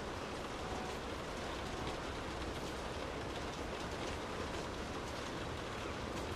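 Steady rain falling: an even hiss with scattered faint drop ticks over a low rumble.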